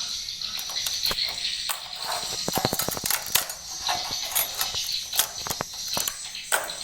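Swiftlets chirring and clicking, a steady high twittering with scattered sharp clicks and a quick run of clicks about two and a half seconds in.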